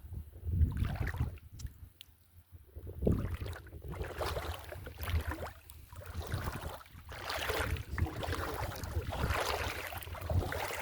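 Shallow seawater sloshing and splashing in irregular bursts, with low thumps of wind buffeting the microphone.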